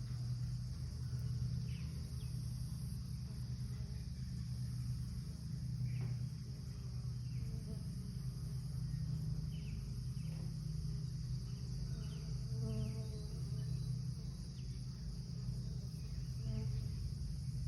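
Many native bees buzzing around their log hive, a steady low hum of wings that carries on throughout. A steady high-pitched insect trill runs alongside it.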